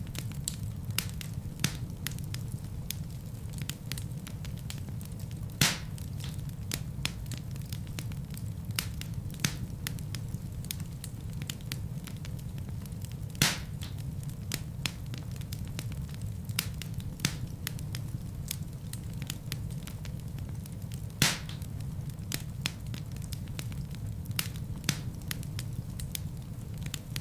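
Wood fire burning in a fireplace: a steady low rumble of flames with frequent crackles from the logs and a few louder pops, about eight seconds apart.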